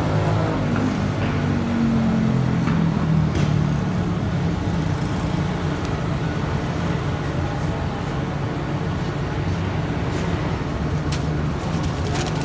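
Street traffic noise with a steady low rumble and a vehicle engine passing in the first few seconds, with a few sharp clicks later on.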